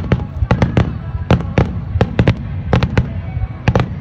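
Aerial fireworks bursting in quick, irregular succession: sharp bangs, about three or four a second, over a steady low rumble.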